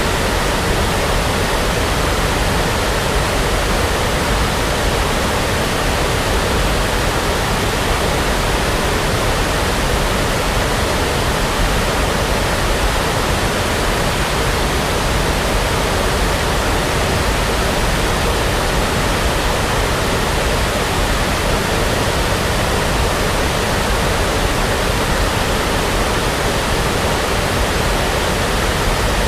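Steady, unchanging brown noise: an even rushing hiss, heaviest in the low end, with no events or changes.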